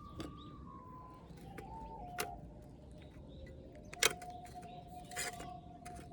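Slow recorder music: long, pure held notes stepping down in pitch, the last held for about two seconds. A few sharp clicks sound over it, the strongest about four seconds in.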